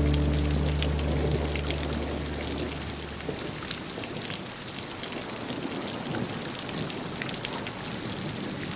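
Steady rain falling, with scattered sharp drop taps. Over the first few seconds the last low notes of a song ring out and fade away under it.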